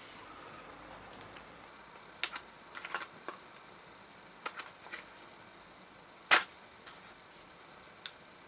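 Scattered sharp clicks and knocks, a few in quick succession, the loudest a single knock about six seconds in.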